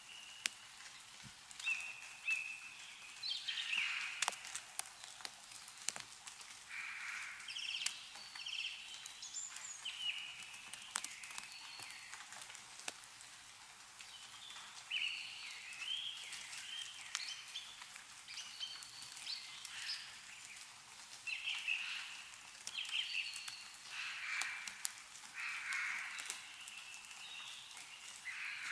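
Meltwater dripping from snow-laden trees in irregular sharp drips and ticks, with small birds singing short chirping phrases every second or two.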